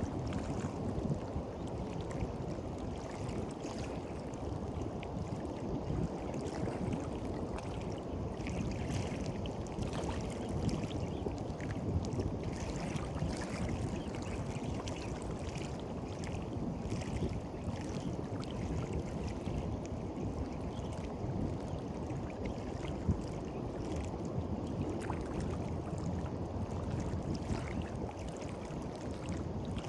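Gentle sea waves washing onto a beach: a steady low wash with a fizzing hiss that swells and fades as the water runs up and drains back.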